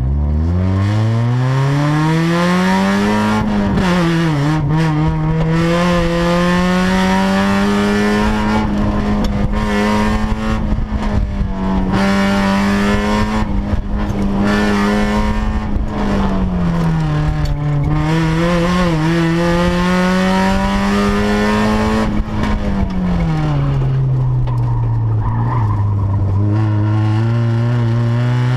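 The 1996 Mazda Miata's four-cylinder engine, heard from inside the car, revs up hard from a standing launch and then runs at high revs, with short lifts off the throttle twice. It falls to a lower pitch near the end and then climbs again. Tyres squeal in places.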